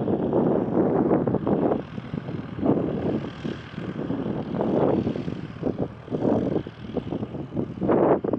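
Wind buffeting the microphone in irregular gusts, with a light propeller aircraft's engine running underneath.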